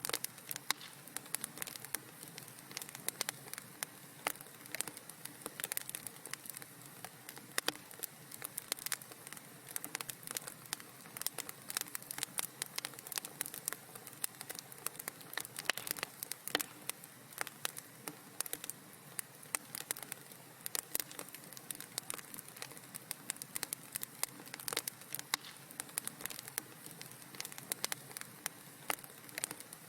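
Wood fire in a fireplace crackling, with many small irregular pops and snaps over a soft steady hiss.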